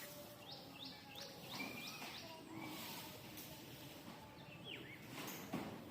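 Birds calling: a quick run of five or six short, falling chirps about half a second in, and another chirp later on. A brief sharp noise near the end is the loudest moment.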